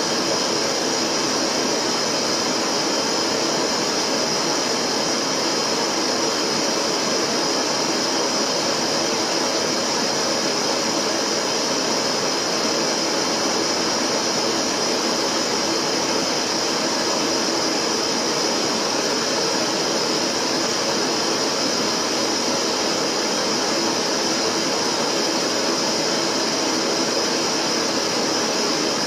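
Steady, unbroken synthetic colour noise: an even hiss spread across the range, strongest in a high band. It is the kind of noise track played as a background for EVP listening.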